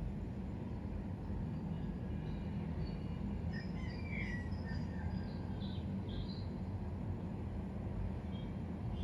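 Steady low background rumble, with a few short bird chirps over it around the middle.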